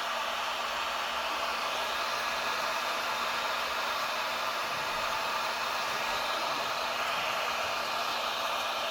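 Heat gun blowing steadily: an even rush of hot air over a constant motor hum.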